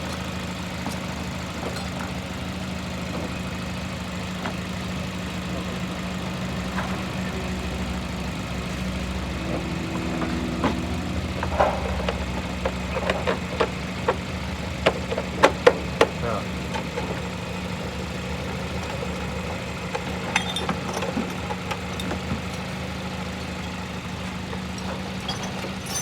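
Toyota Corolla GLi engine idling steadily and evenly after a valve tappet adjustment, with no tappet clatter: the mechanic calls it completely soundless. A run of sharp clicks or light knocks is heard in the middle.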